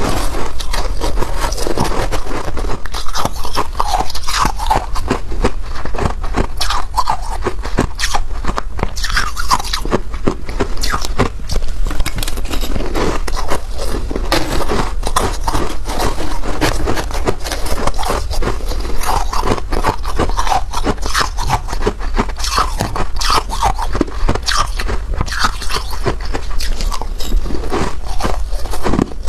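Freezer frost being scraped off and crunched between the teeth: a dense, continuous crackling crunch close to the microphone.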